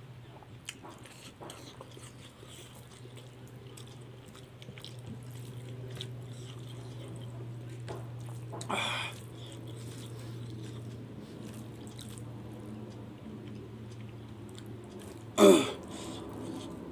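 Close-up eating sounds of a person chewing rice and curry eaten by hand, with many small mouth clicks over a steady low hum. A louder, breathy burst comes about nine seconds in, and a short, loud voice-like sound near the end.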